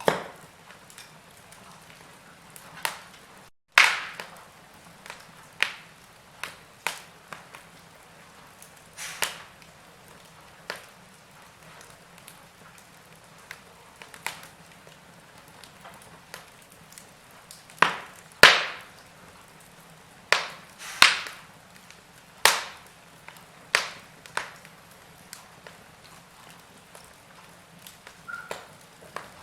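Wood fire in a fireplace crackling: irregular sharp pops and snaps of varying strength, roughly one a second, over a faint steady hiss. The sound drops out for an instant about three and a half seconds in.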